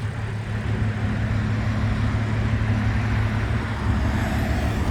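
Audi S5's supercharged V6 idling steadily through its AWE aftermarket exhaust, a low, even hum.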